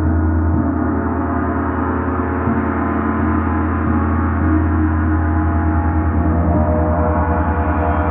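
A large gong played continuously in a gong wash: a deep, sustained ringing with many overtones and a fast, even wavering in loudness, with a few soft strokes keeping it going.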